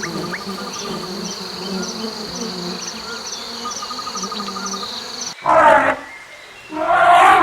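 Insects chirping and buzzing: a steady high trill with regular pulsed chirps over a low drone. Near the end it breaks off and two loud, short noisy bursts follow about a second apart.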